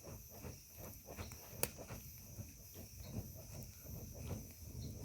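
Crickets chirring steadily, over faint irregular crackling from a small bonfire of wet firewood, with one sharp snap about a second and a half in.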